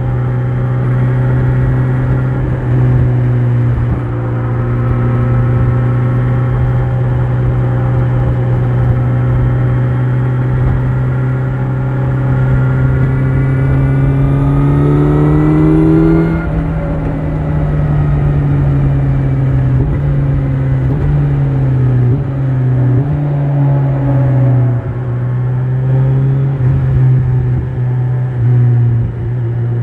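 Kawasaki Z900 inline-four engine running through an Akrapovič exhaust while riding. It holds a steady note, then the revs climb slowly for a few seconds midway and fall away as the throttle closes. Later the engine note dips briefly several times.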